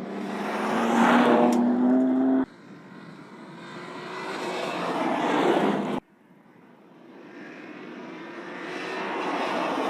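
BMW M2 Competition's twin-turbo straight-six driving past at speed in three separate edited shots, each growing louder as the car approaches. The first has a clear engine note rising slightly in pitch, and the first two cut off abruptly.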